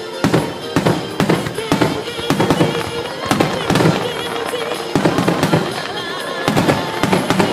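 Aerial fireworks shells bursting in quick succession, about two sharp bangs a second, over music playing.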